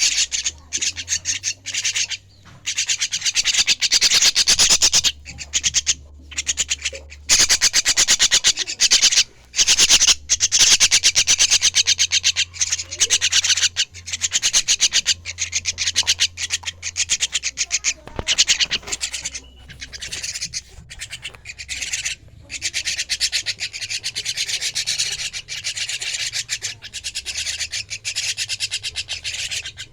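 Young jalak (starling) chicks giving harsh, raspy begging calls, made of very fast pulses, in long runs broken by brief pauses.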